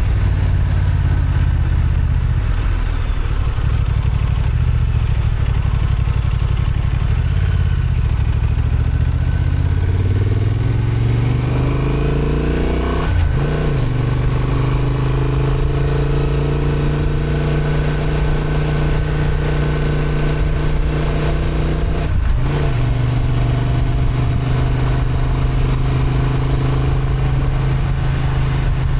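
Honda XL750 Transalp's parallel-twin engine pulling under load, its pitch climbing for several seconds, with two short breaks in the engine note as gears change, about halfway through and again later, then running steadily.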